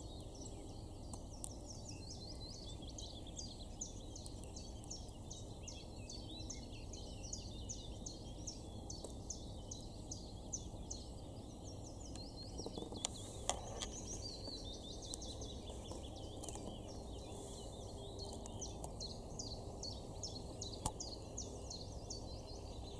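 Small birds singing: a steady, quick run of high chirping notes over a faint low outdoor background, with a few faint clicks around the middle.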